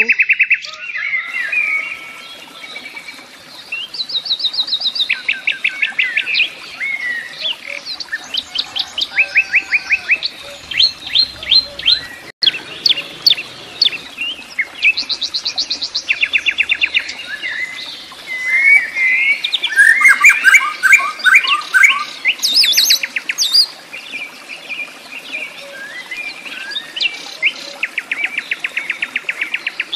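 Songbirds singing: fast trills of repeated high notes and chirps, phrase after phrase, overlapping at times.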